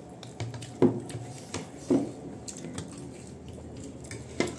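Close-up eating sounds: wet chewing and squishing of food, with a few sharp clicks.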